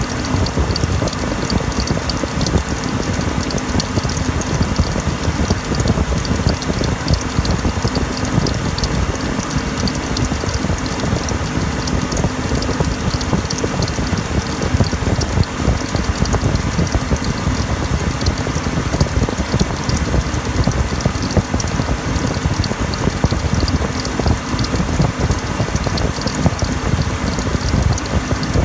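2001 BMW 525i's inline-six engine running, with a fast, steady mechanical ticking and clatter from the accessory belt drive, whose power steering pulley sits out of line, which the owner takes for the cause of a squealing noise.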